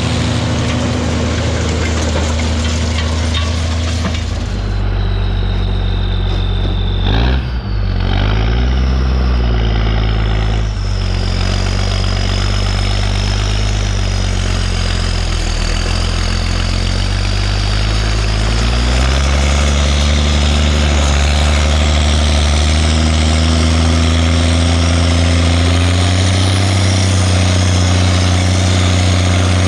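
Zetor 16145 tractor's six-cylinder diesel engine running, its speed dropping about four seconds in, wavering briefly around seven to eight seconds, then rising again around nineteen seconds and once more near the end.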